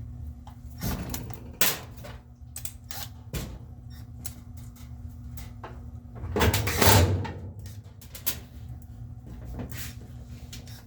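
Knocks and clatter of a top-load washing machine being handled and shifted into place, with a louder scraping rush about six seconds in, over a steady low hum.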